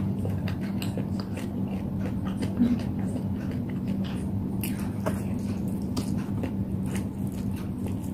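Close-up chewing and mouth sounds of a person eating spicy noodles: many short, soft clicks and smacks over a steady low hum.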